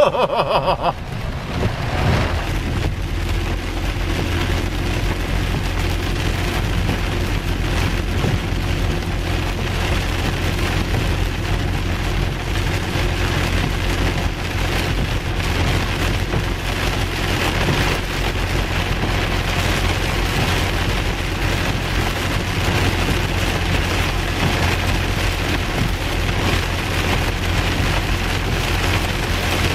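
Heavy rain pouring onto a moving car, heard inside the cabin as a steady hiss over the low, steady drone of the engine and tyres.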